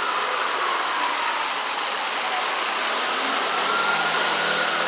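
Road traffic noise: a steady wash of passing cars, with a low engine hum joining about three and a half seconds in.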